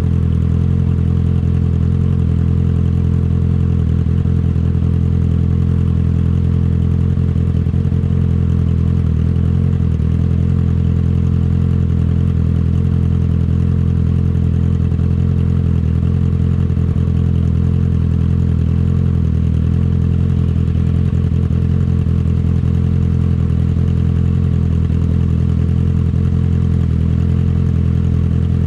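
Exhaust note of a 2019 Honda CB650R's inline-four through an Akrapovic titanium exhaust, running at a steady, unchanging engine speed with no revving or gear changes.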